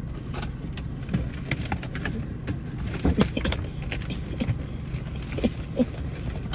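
Steady low rumble of a car cabin with the engine running, with scattered small clicks and rustles from something being handled.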